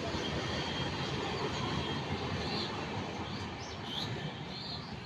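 Indian Railways passenger coaches rolling past on the rails: a steady rumble and rattle of steel wheels on track that thins out slightly near the end as the last coach goes by.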